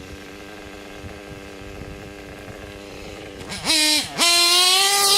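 Kyosho KE25 nitro engine of an RC truggy running at a steady, fairly quiet pitch, then about three and a half seconds in revving up sharply and loudly. It dips briefly and goes back to a loud, high, steady whine at full throttle.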